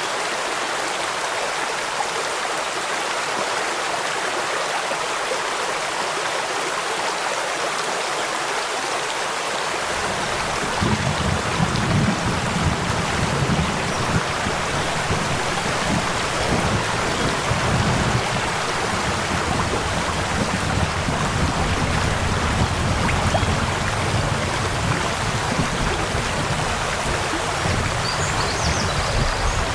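Steady rushing water of a stream with rainfall. About ten seconds in, a low rumble joins underneath and continues.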